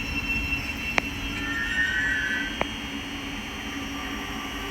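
Coupled Class 387 electric multiple units passing through a station: a steady whirring rush with two sharp clicks from the wheels, easing off slightly.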